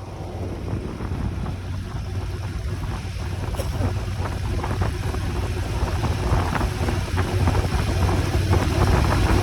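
Motorcycle under way: the engine's low hum under a steady rush of wind on the microphone, growing gradually louder.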